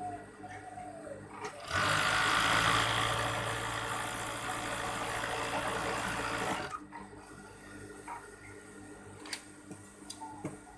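Overdeck (coverstitch) sewing machine running a seam at speed for about five seconds, starting about two seconds in and stopping abruptly.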